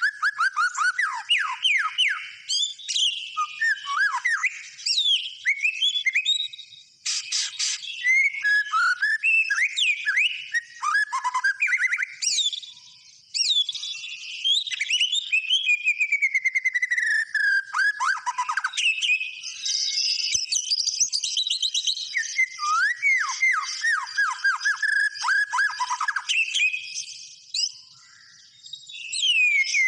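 White-rumped shama (murai batu) in full, nonstop song: a varied stream of clear whistles and chatter, with quick runs of downward-sweeping notes and a few longer falling whistles, broken by short pauses.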